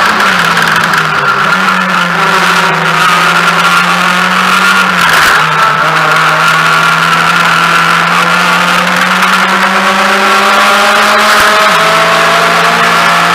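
Mazda MX-5's four-cylinder engine at racing revs, heard from inside the cabin. Its pitch drops near the start and dips briefly midway, as on braking and gear changes, then climbs steadily near the end as the car accelerates.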